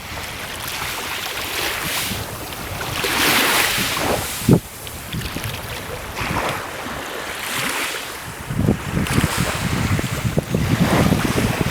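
Wind buffeting the microphone over the wash of sea water, swelling and fading, with a single sharp knock about four and a half seconds in; the gusts turn choppier and louder near the end.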